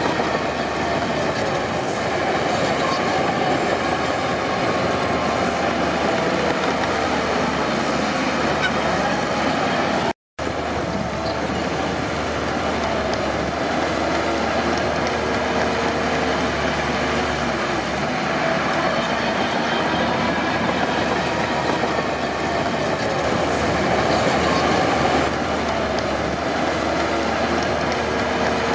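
Crawler bulldozer working, its engine running steadily under the clatter and squeal of steel tracks, with squealing tones that waver up and down. The sound cuts out for a moment about ten seconds in.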